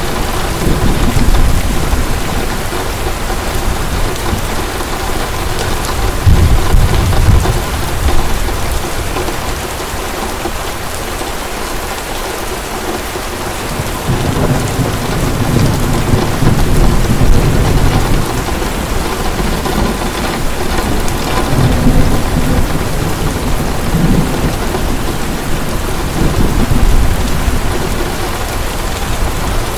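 Heavy rain pouring steadily, with low rumbles of thunder rolling in several times, the strongest about six seconds in and again for a few seconds past the middle.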